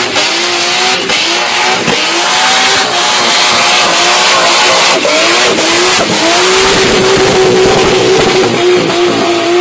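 Toyota Supra Mk4's 2JZ straight-six engine held at high revs during a burnout, its pitch bobbing up and down, over continuous tyre squeal from the spinning rear wheels.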